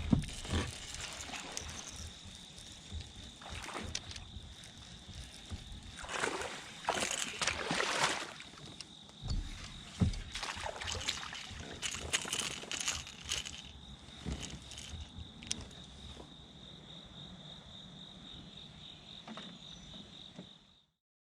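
Water sloshing and splashing around a fishing kayak, with scattered knocks and clatters, over a steady high-pitched insect drone. The sound cuts off suddenly near the end.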